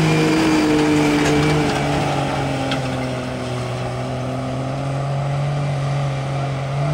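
Cummins turbo-diesel in a Dodge Ram pickup running hard under load while pulling a weighted sled, its note held steady at high revs. The pitch sags slightly about two seconds in as the load builds.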